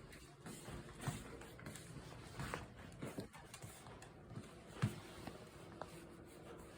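A mixed-breed dog moving about close by: faint, irregular taps and clicks of its paws on the floor, with a sharper knock a little under five seconds in.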